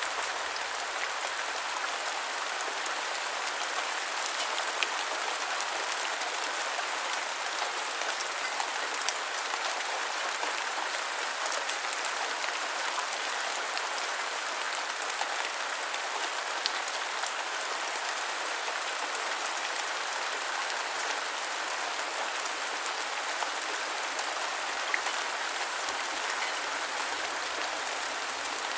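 Steady rain falling, a dense even hiss with scattered sharper drop ticks now and then.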